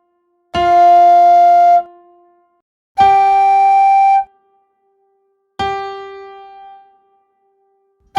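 Single practice notes played slowly, one at a time with gaps between them. There are three held, steady notes about a second long each, the first a step lower than the other two. Around the middle, a piano-like note at the higher pitch rings and fades away.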